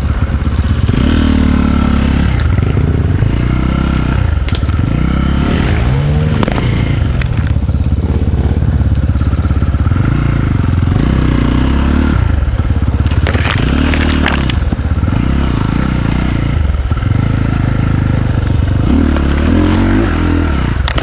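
Single-cylinder enduro dirt bike engine running under load as the bike is ridden, revving up and dropping back several times, with a few knocks and clatters.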